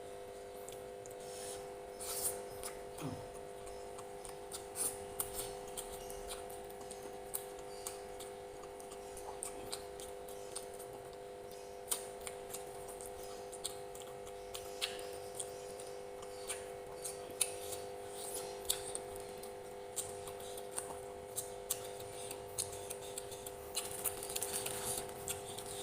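Close-miked eating sounds: scattered sharp mouth clicks and smacks of chewing, irregular and brief, over a steady background hum.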